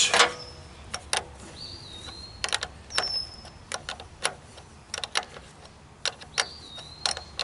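Metal hand tool clicking against a battery-terminal bolt as it is tightened: a dozen or so irregular sharp clicks, often in pairs. A bird chirps a few times.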